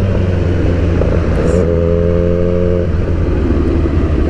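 Motorcycle engine running under way, with wind rush over it. The engine note steps up about a second and a half in, holds, then falls away near the three-second mark.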